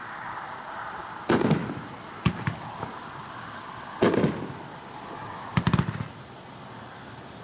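A 16-shot 500-gram 'Righteous' consumer firework cake firing its aerial shells, heard from a distance. Single booming breaks come about a second in, about two seconds in and about four seconds in, then a quick cluster of several pops near six seconds, with a steady hiss in between.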